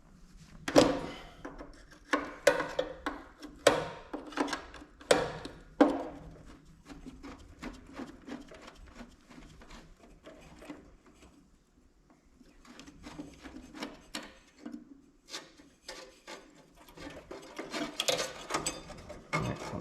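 Hand tools clinking and scraping on metal as a cable bracket is unfastened from a Kohler K241 engine: a run of sharp knocks in the first six seconds, quieter scraping and rattling in the middle, and more clicks near the end.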